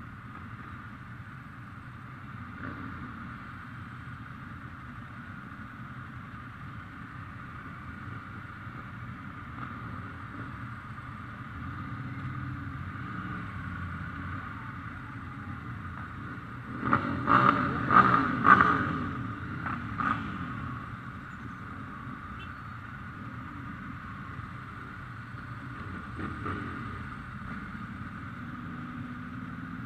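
Ducati motorcycle engines running steadily, with a loud cluster of several sharp peaks a little past halfway, like bikes being revved or passing close.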